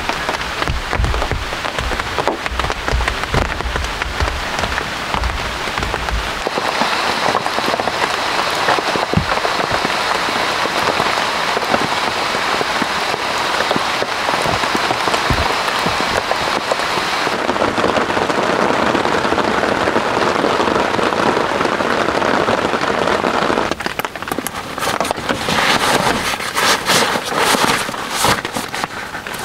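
Steady rain falling on the tent and the surrounding forest. Near the end, the crinkly rustle of a nylon rain jacket being handled over the rain.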